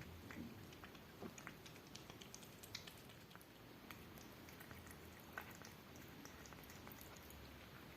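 Mother cat eating: faint, scattered small wet smacks and clicks of chewing.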